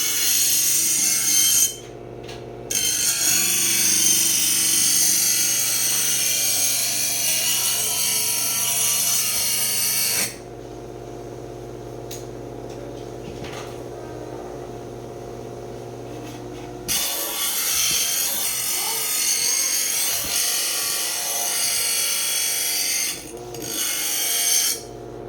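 Electric knife sharpener running, with a steady motor hum, as a knife blade is drawn through its grinding slot, making a loud rasping hiss in several long strokes. For about six seconds in the middle only the motor hum is heard, then the grinding starts again.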